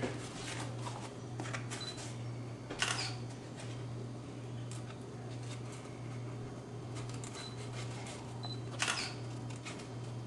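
Scattered light clicks and taps of parts being handled during model building, the two sharpest about three seconds in and near the end, over a steady low hum.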